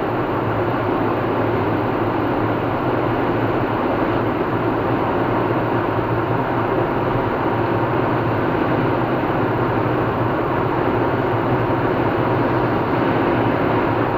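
Steady drone of a car driving at highway speed: tyre and road noise with engine hum, unchanging throughout.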